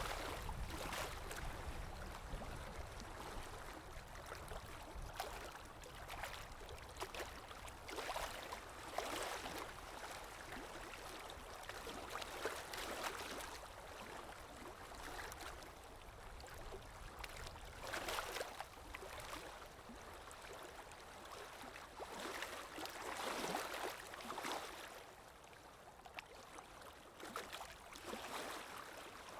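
Moving water splashing and lapping, rising in irregular surges every few seconds over a steady wash.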